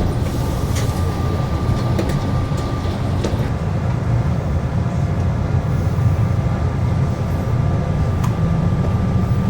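San Francisco Airport AirTrain car heard from inside: a steady low rumble with a constant thin hum over it, and a few light clicks.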